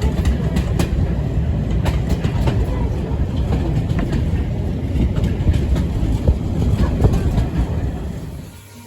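Heritage railway carriage of a steam-hauled train running along the track: a loud, steady low rumble with irregular clicks and knocks from the wheels on the rails. It drops away quickly near the end.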